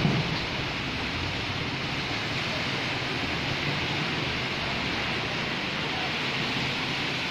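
Steady hiss of heavy rain falling onto a flooded street, with a brief louder thump right at the start.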